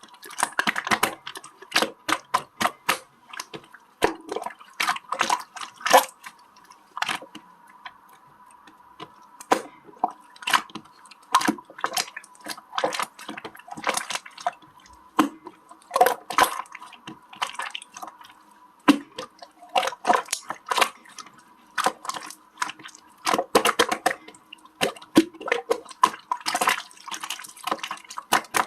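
Slime being squished and pressed by hand, giving a dense, irregular run of sticky clicks and wet pops. A faint steady hum sits underneath.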